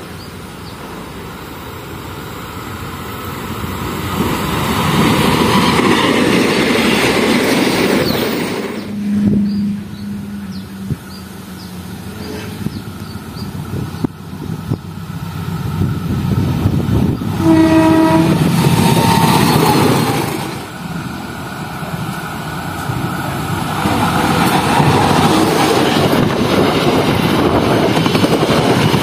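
Passenger trains running past at speed, their rumble and wheel clatter swelling and fading several times. Short locomotive horn blasts sound about nine seconds in and again just past the middle.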